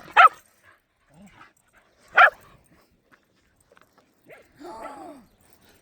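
A puppy barks once, short and sharp, about two seconds in, followed near the end by a fainter, longer whine that rises and falls in pitch.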